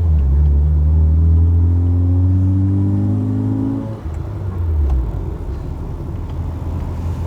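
Tuned Honda City's swapped-in 1.5-litre engine and exhaust under acceleration: the engine note rises steadily for about four seconds, then drops off as the throttle is lifted, leaving a low drone that fades a second later.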